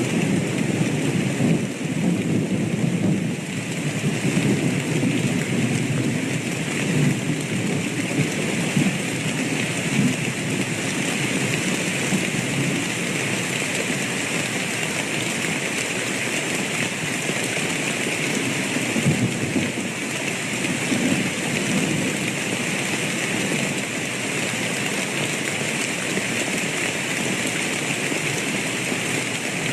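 Steady rain falling in a thunderstorm, with low rolls of thunder rumbling through the first third and again about two-thirds of the way in.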